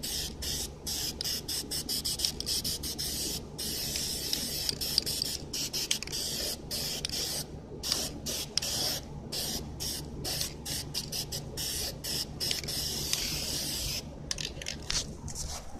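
Aerosol spray paint can hissing in many short, uneven bursts with brief stops between them.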